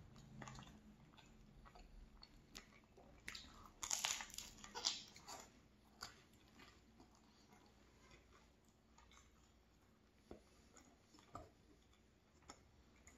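A person biting and chewing a flaky blueberry-filled pastry, with crisp crunches from the pastry's edges. The crunching is loudest in a cluster about four to five and a half seconds in, then thins to faint, sparse mouth sounds.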